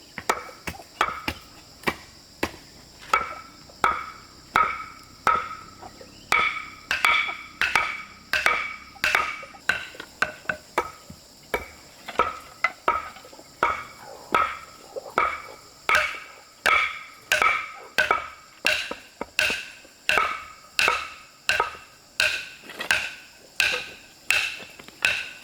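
Knife chopping on a wooden cutting board in a steady run of strokes, about two a second, each with a short ringing knock. Insects shrill steadily behind it.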